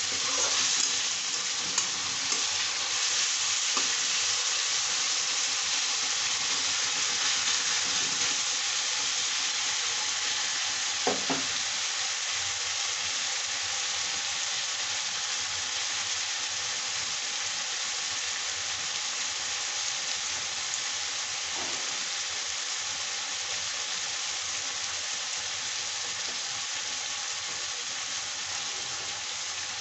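Sliced onions and tomato sizzling steadily in hot oil in a steel kadai, with a few light knocks of the spatula against the pan near the start.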